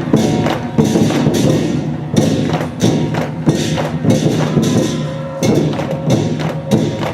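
Lion dance percussion ensemble playing: a big drum beating a fast, irregular rhythm with crashing, ringing cymbals over it.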